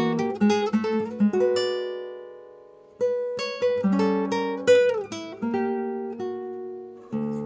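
Acoustic guitar playing a tune in single picked notes and chords. About two seconds in, a note is left to ring and die away, and the playing picks up again about a second later.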